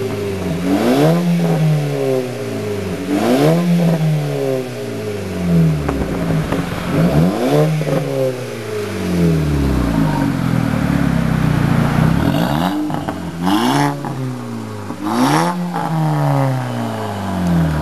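Volkswagen Mk5 GTI's turbocharged 2.0-litre four-cylinder revving repeatedly through a full 3-inch aftermarket exhaust, each rev climbing quickly and falling back. A few sharp pops come about 13 seconds in.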